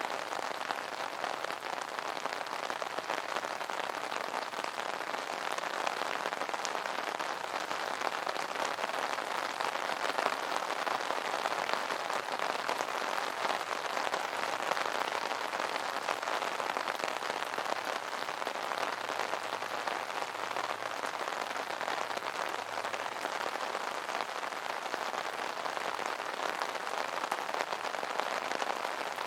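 Steady rain pattering on an umbrella's fabric canopy, a dense even patter of drops.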